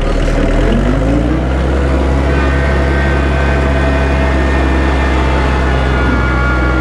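Kubota tractor's diesel engine revving up about a second in, then running steady at working speed, with a thin high whine joining about two seconds in.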